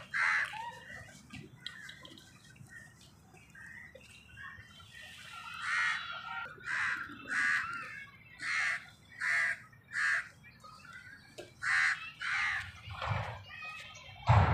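Birds calling outdoors: a long run of short, harsh calls, a few at first and then one after another, often in pairs, from about six seconds in. A low thump comes right at the end.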